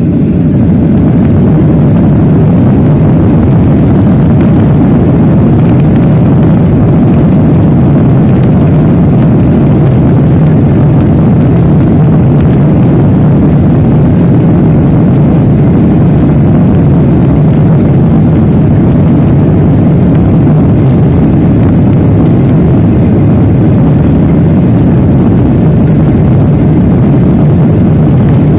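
Boeing 737-800's CFM56-7B turbofan engines at high thrust, heard from inside the passenger cabin as a loud, steady roar with a low hum. The noise builds just before this point, then holds level, as it does during the takeoff run and initial climb.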